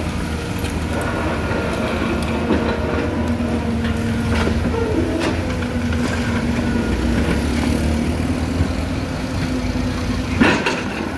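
Excavator engine running steadily under load, with scattered knocks and one louder knock about ten and a half seconds in, typical of the bucket working in rock.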